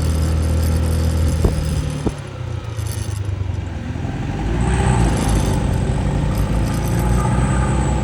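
Motor scooter running along a road, engine and road noise from the rider's own bike. There are two sharp clicks about a second and a half and two seconds in. The noise eases for a couple of seconds, then swells again about five seconds in.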